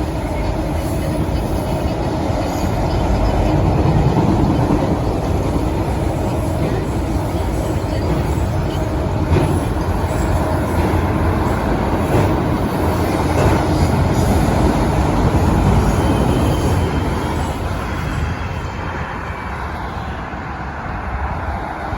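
Freight train of auto rack cars rolling past, a steady rumble of wheels on the rails with faint clicks from the rail joints, easing off slightly near the end.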